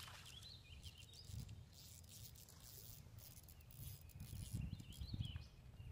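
Faint outdoor ambience: a bird chirping a few short times over a low rumble.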